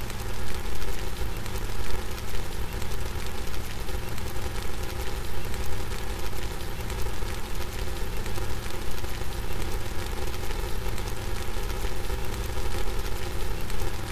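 Steady heavy rain falling, a dense even hiss with a strong low rumble underneath.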